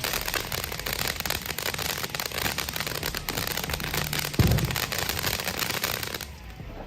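Make the Grade consumer fireworks fountain burning, with dense, continuous crackle and a single low thump about four and a half seconds in. The crackling dies away near the end.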